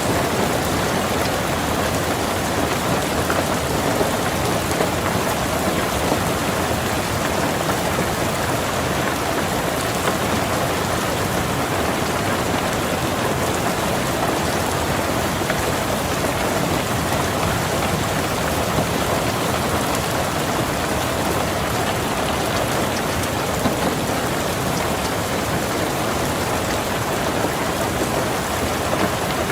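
Steady rain falling on a car, heard from inside the cabin, with an even hiss and a few scattered louder drops.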